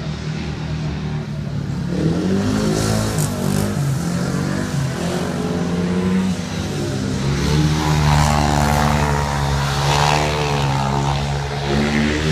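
A 500cc single-cylinder speedway motorcycle engine running as the bike laps the track, its pitch rising and falling with the throttle and loudest in the second half.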